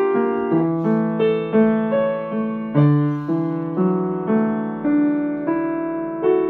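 Solo piano playing a slow melody, single notes and chords struck about every half second and left to ring, with a final chord sustaining and fading near the end.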